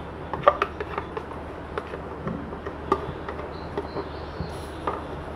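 Chicken and yogurt sizzling in hot oil in a karahi: a steady hiss with scattered small pops and crackles.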